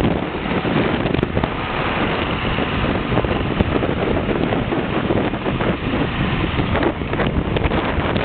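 Blizzard wind buffeting the microphone in a loud, gusting rush, over the running engine of a John Deere 4450 tractor.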